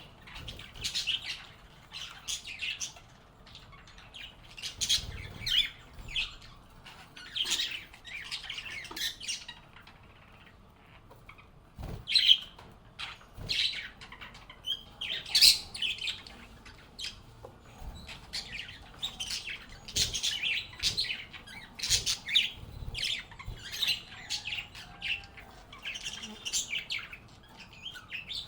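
Pet lovebirds calling: a busy run of short, high chirps from several birds, with a brief lull a little over a third of the way through.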